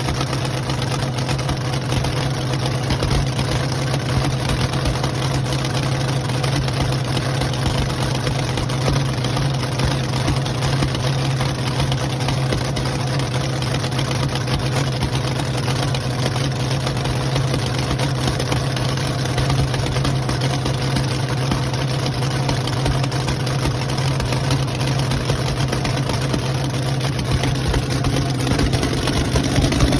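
Freshly rebuilt engine idling steadily on its first start-up after new head gaskets were fitted.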